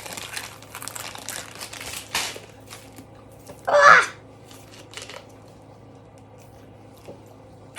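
Crinkling and rustling for the first two seconds or so, then a short louder burst about four seconds in, followed by a few faint ticks.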